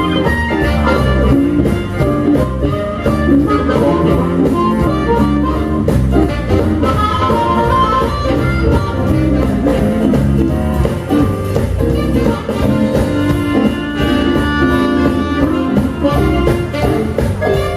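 Live Chicago blues band playing an instrumental passage with a steady beat.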